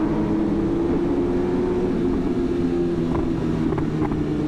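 Superbike engine running at steady cruising revs, a held tone that drifts only slightly in pitch, over a dense low wind rumble.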